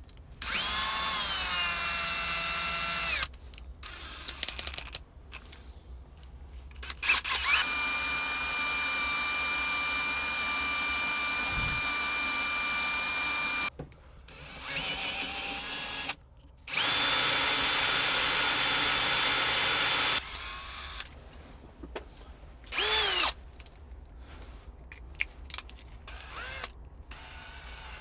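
Electric drill running in several bursts, drilling out a seized bolt on a tractor; each burst starts with a rising whine as the motor spins up, then holds a steady pitch, the longest about six seconds.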